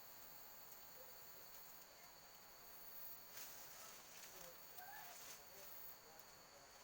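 Faint, steady chorus of forest insects, a continuous high-pitched buzzing at two steady pitches, with a few faint short chirps about four to five seconds in.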